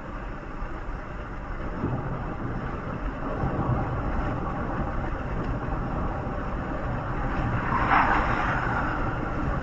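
Steady road and engine noise of a moving vehicle, growing a little louder after a couple of seconds, with a brief louder hiss about eight seconds in.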